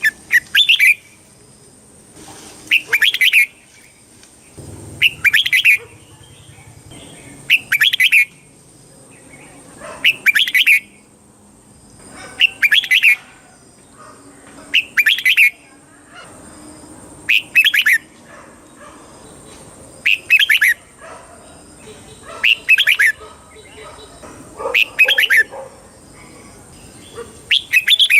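Red-whiskered bulbul singing: short, bright, chirping song phrases repeated about every two and a half seconds, around a dozen in all, with short pauses between.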